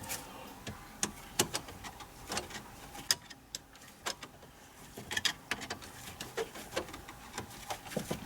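Irregular light clicks and taps, about one a second, of plastic and metal parts being handled as a new ignition lock cylinder module is fitted into a car's steering column.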